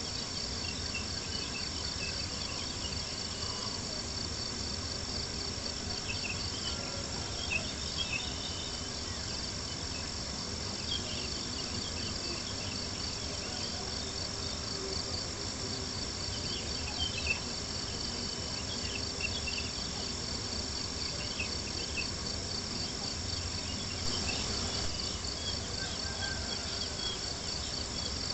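Crickets chirping in a steady, rapid pulsing trill, with scattered small crackles from a campfire underneath.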